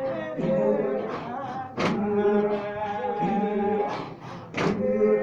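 Revival Zion band labouring: several voices chanting on long held notes that shift between a few pitches, broken by a few sharp percussive beats.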